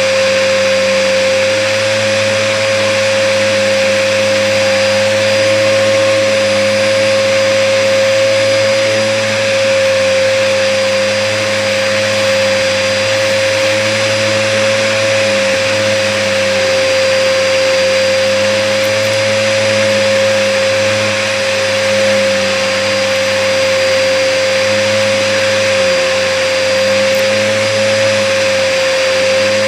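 Hoover vacuum cleaner running steadily, its motor giving a constant high whine over the rush of air. The owner suspects it is clogged.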